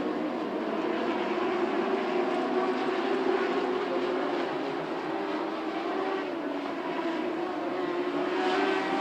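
A field of lightning sprint cars racing on the oval, their engines running at high revs in a steady blended drone whose pitch wavers slightly as cars come and go.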